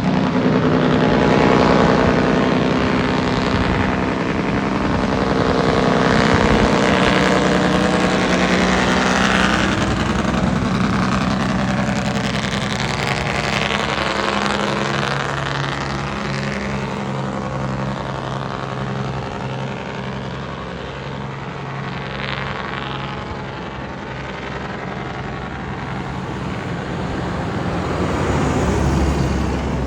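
Freightliner Century semi-truck's diesel engine brake (jake brake) running in a loud, continuous, deep note. Its pitch steps down about halfway through and holds lower, and the level swells again near the end.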